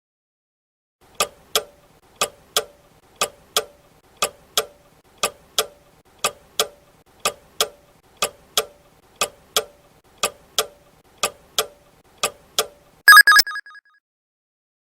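Countdown timer sound effect: a clock ticking in tick-tock pairs, one pair a second, for twelve seconds. It ends in a short, loud ringing alarm.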